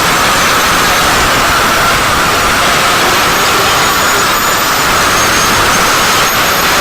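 Steady, loud machine noise, an unbroken rushing hiss that does not change.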